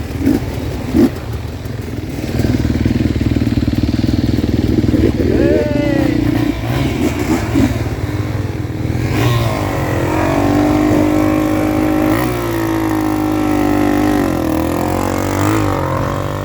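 Off-road dirt bike engines revving, pitch rising and falling. From about nine seconds one engine is held at high revs with a wavering pitch.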